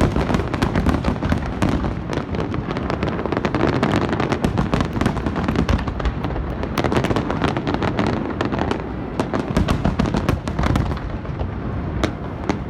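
Large aerial fireworks display going off continuously: many crackling reports and sharp cracks in quick succession over a rolling rumble of booming shells.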